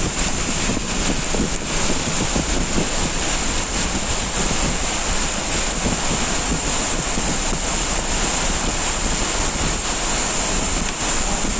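Hail coming down hard in a storm, a dense steady hiss with faint scattered hits.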